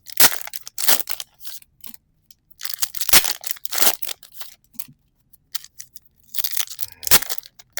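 Trading card booster pack wrapper crinkling and being torn open by hand, in three spells of crackly rustling with short pauses between.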